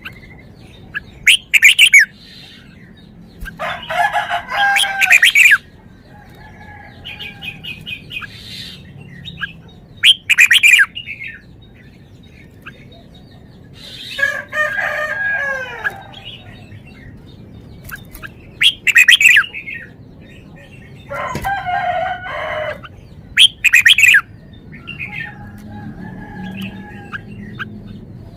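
Red-whiskered bulbul singing: loud, short warbled phrases repeated every few seconds, with quieter calls in between.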